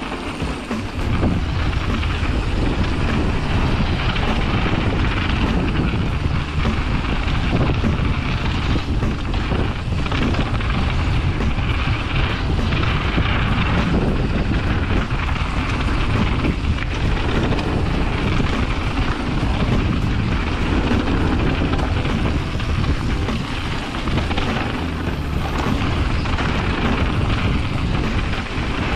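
Mountain bike riding down a trail: wind rushing over the microphone mixed with the steady rumble and rattle of the bike over the ground.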